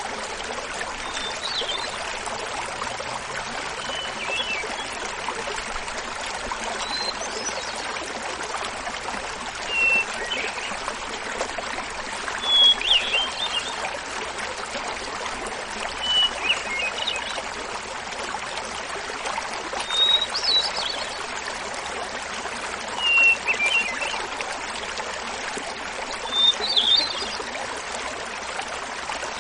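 Hermit thrush singing its flute-like phrases over the steady splashing of a small mountain waterfall. About ten short phrases come roughly every three seconds, each pitched higher or lower than the one before.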